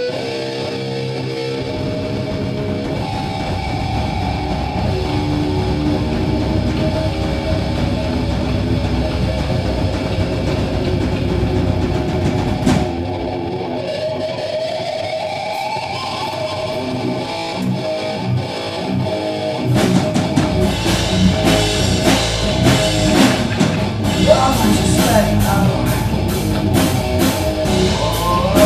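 Live rock band playing an instrumental passage led by guitar, with sustained chords at first and the drums growing much busier and louder about twenty seconds in.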